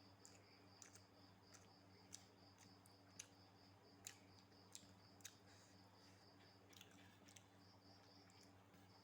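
Faint room sound: a cricket chirping in a steady, rapidly pulsed high trill over a low steady hum, with scattered soft clicks.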